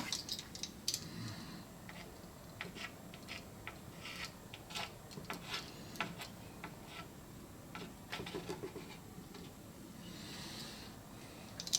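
Faint scattered clicks and light taps of small objects being handled and set down, with a soft rustle near the end.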